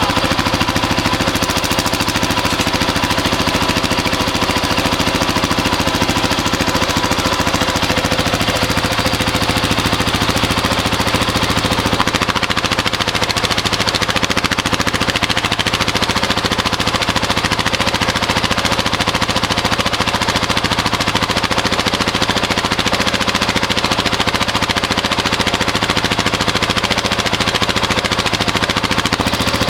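Honda XR650's single-cylinder four-stroke engine, fed by an FCR carburettor, running steadily at idle with an even, rapid exhaust pulse and no revving, as is done for an exhaust emissions check.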